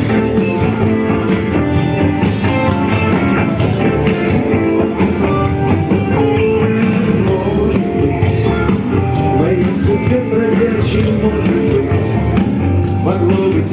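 Live rock band playing an instrumental passage without vocals, loud and steady.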